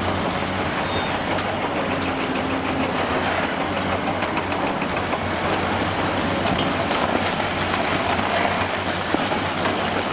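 Large hydraulic demolition excavators' diesel engines running steadily under load, with a dense scatter of small knocks and crunches from concrete rubble breaking and falling.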